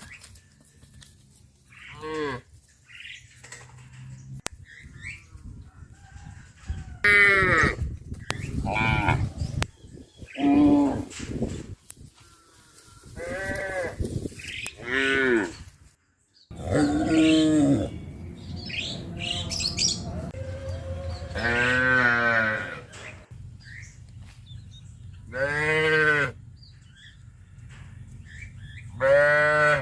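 Cattle mooing, about ten separate calls one after another, each rising and then falling in pitch.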